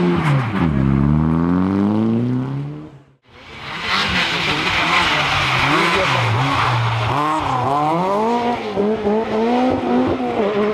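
Rally car engines at speed, in two separate passes. First an engine's pitch drops sharply as it comes off the throttle and fades. After a break of about three seconds in, a second car runs hard with a loud hiss of tyres, its engine pitch climbing and dropping through gearshifts and lifts.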